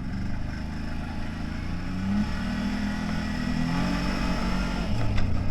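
CFMoto 1000 off-road vehicle's engine running as it pulls away, its pitch rising a little around the middle and easing back, with the noise of the ride underneath.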